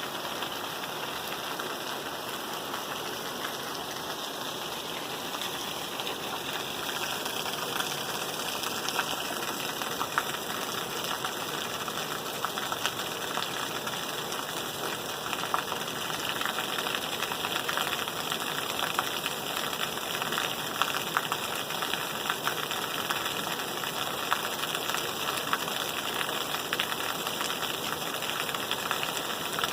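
Rain falling steadily, an even hiss with many individual drops tapping; from about seven seconds in it grows a little louder and the taps come thicker.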